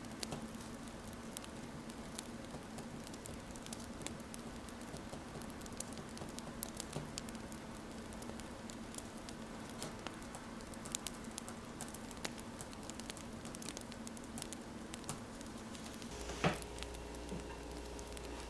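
Wood fire crackling: a steady hiss scattered with small sharp pops, with pen-on-paper writing sounds mixed in. About two seconds before the end comes one louder pop, and then a low hum with faint steady tones sets in.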